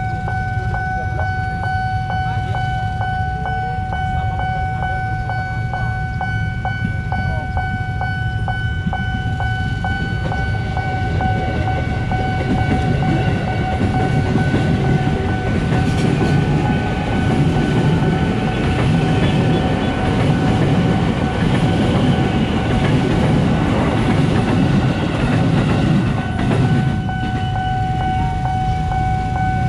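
Level-crossing warning bell sounding a steady tone with rapid, even strikes while a KRL Commuter Line electric train passes over the crossing. The train's rumble and wheel clatter build from about ten seconds in, partly covering the bell, and ease off near the end.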